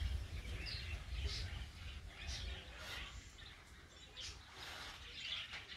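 Birds chirping in short, scattered calls, with wind rumbling on the microphone for the first couple of seconds.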